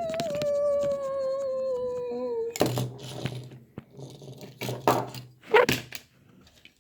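A person humming one long note that slides slowly down in pitch for about two and a half seconds. Then come irregular clicks and knocks of handling a plastic model and its packaging.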